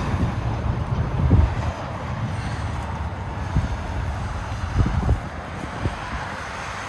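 Wind buffeting the microphone: an uneven low rumble that swells and dips in gusts, with a few stronger gusts about a second in and again near five seconds.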